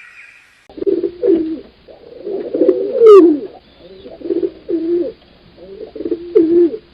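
A bird giving a series of low, cooing calls in short groups, loudest about three seconds in, after a brief faint bit of higher birdsong at the start.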